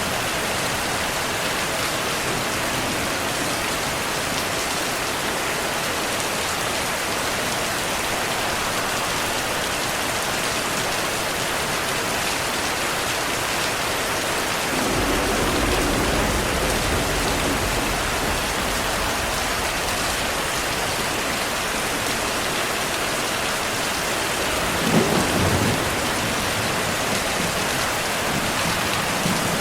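Heavy rain falling steadily, with thunder: a low rumble rolls in about halfway through, and a sharper clap of thunder comes a few seconds before the end.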